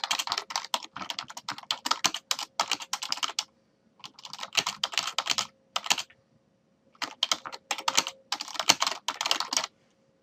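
Fast typing on a computer keyboard, keys clattering in quick runs with short pauses between bursts, stopping shortly before the end.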